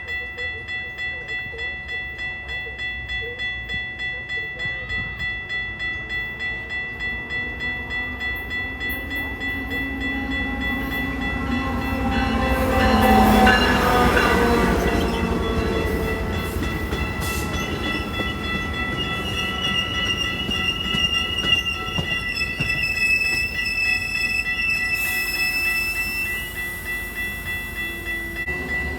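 A grade crossing bell rings steadily at about two strokes a second while a train approaches and passes, with its horn sounding as the noise swells to its loudest about halfway through. A high wavering squeal follows later as the train goes by.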